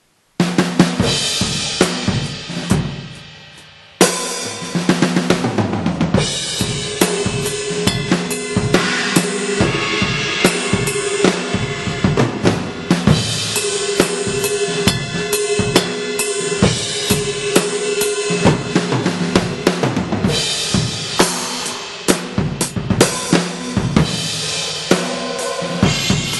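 Electronic drum kit played through a 2Box module loaded with a sampled Vistalite acrylic drum kit: kick, snare, toms and cymbals in a groove. After a short burst of hits, a cymbal rings out and fades for a couple of seconds, then steady playing resumes with cymbal wash.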